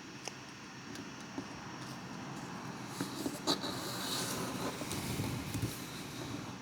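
Sheet of origami paper rustling and crinkling as it is handled and folded, with a few sharp crisp ticks as creases are pressed, busier from about halfway through.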